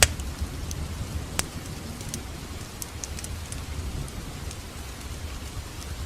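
Wood fire burning in a fireplace: a steady low roar with scattered small crackles, and sharp pops right at the start and about a second and a half in.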